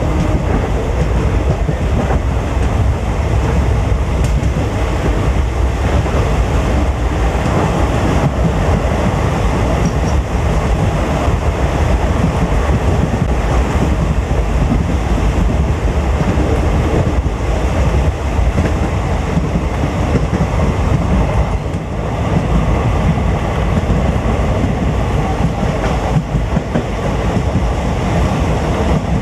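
Passenger train running steadily along the track: a continuous loud rumble and rattle of wheels on the rails.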